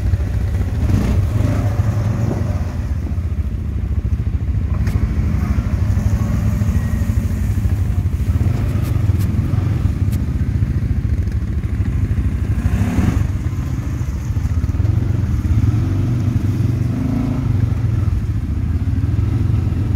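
CFMoto CForce ATV engine running steadily while riding, with a few knocks and rattles from the machine over rough ground.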